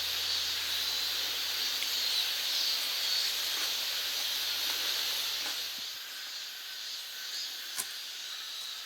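Grated-potato pancake frying in oil: a steady sizzle, with one light click near the end.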